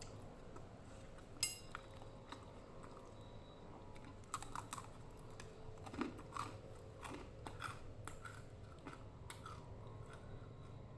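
A person chewing rujak (cucumber, vegetables and lontong), with a run of faint crunches and wet mouth clicks from about 4 s on. A short ringing clink comes about 1.5 s in.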